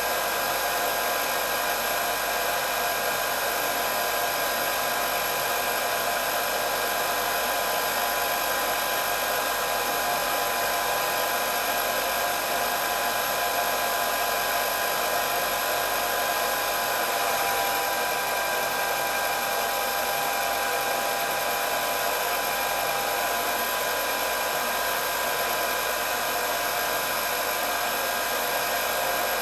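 Hair dryer running steadily: a constant rush of blown air with a steady high whine over it.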